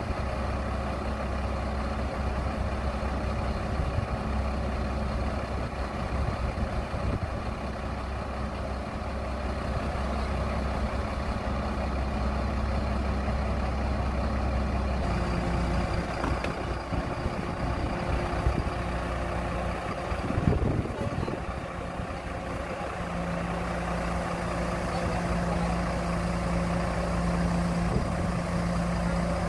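Heavy engine running steadily under a crane lifting goods to a ship. Its pitch and load shift about halfway through, with a brief surge soon after.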